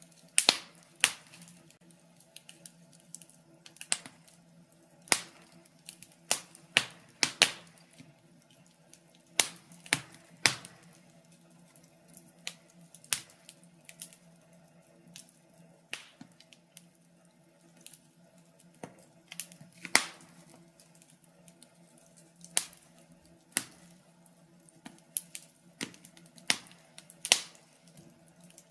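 Wood fire crackling in a fireplace: irregular sharp pops and snaps, about one or two a second, some much louder than others, over a faint steady low hum.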